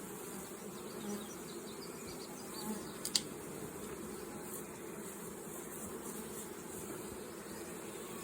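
Honeybees buzzing steadily around an opened hive, with one sharp click about three seconds in.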